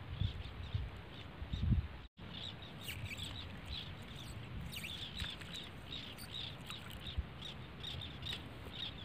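Small birds chirping, many short high calls repeating a few times a second. Wind buffets the microphone with a low rumble for the first two seconds, and the sound cuts out for an instant about two seconds in.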